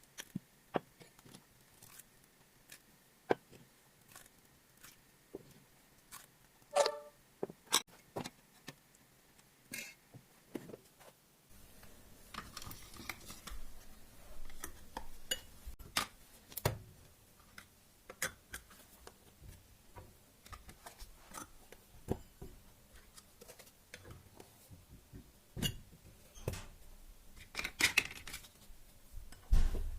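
Kitchen handling sounds during meal preparation: irregular light knocks and clicks of utensils and objects being set down and moved, with a brief ringing clink about seven seconds in.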